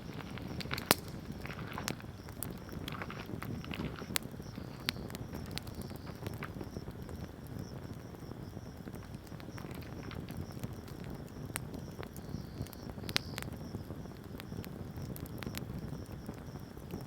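Wood bonfire burning: a low, steady rush of flame with irregular sharp crackles and pops, two of them much louder, about a second in and again later on.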